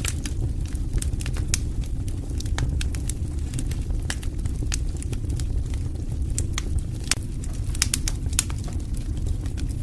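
Wood fire burning with irregular sharp crackles and pops over a steady low rumble, the pops coming thicker around two-thirds of the way through.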